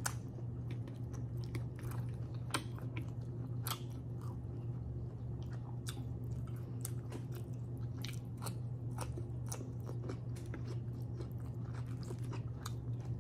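Close-miked chewing and biting of food, with many irregular short clicks and no speech, over a steady low hum.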